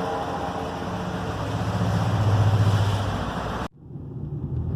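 Toyota RAV4's 2.4 petrol engine running with a steady low hum that grows louder about two seconds in, cut off suddenly near the end and followed by quieter vehicle running noise.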